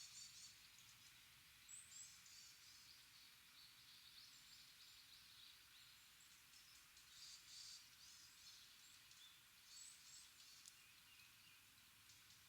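Faint calls of small birds: short, high chirps in scattered clusters every few seconds over a quiet, steady background hush.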